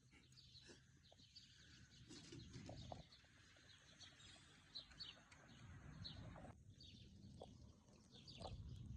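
Faint birds chirping now and then over near silence.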